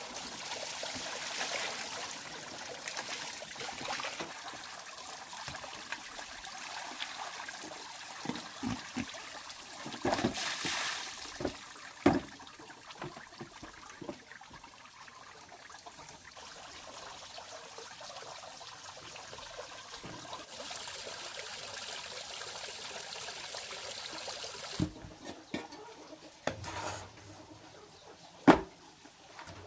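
Water trickling, with scattered clicks and knocks; a sharp knock stands out near the end.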